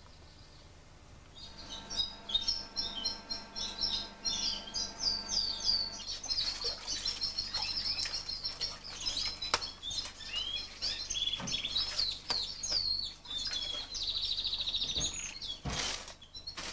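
Many Fife canaries chirping and singing together, their calls overlapping, starting about a second in. A fast trill comes near the end, with scattered light clicks among the calls.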